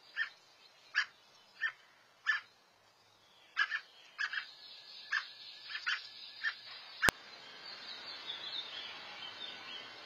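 A bird giving short, sharp chirps, about a dozen of them spaced roughly half a second to a second apart. A single sharp click comes about seven seconds in, after which only faint, thin twittering remains over a steady hiss.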